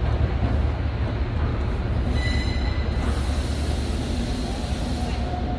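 Class 68 diesel locomotive and its freight wagons running through the station with a steady heavy low rumble. A brief high wheel squeal comes about two seconds in, and a fainter squeal near the end.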